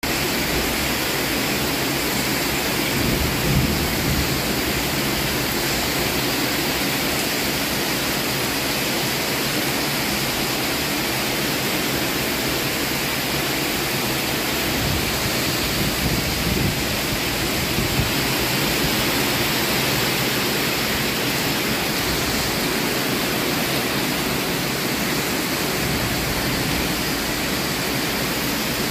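Heavy tropical downpour: a loud, steady hiss of rain, with gusty wind blowing through it and a few brief louder bumps.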